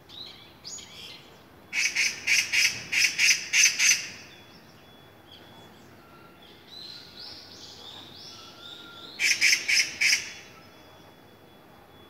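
A bird calling from the trees: two runs of loud, evenly repeated notes, the first of about eight notes and the second of about five, a few seconds apart, with softer chirps in between.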